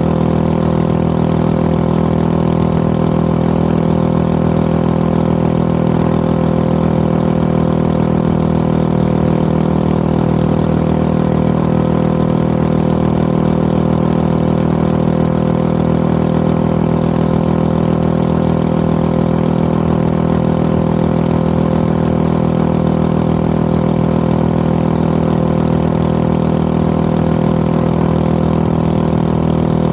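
Motorcycle engine running at a steady, unchanging speed while cruising, its exhaust note loud and even over road and wind noise.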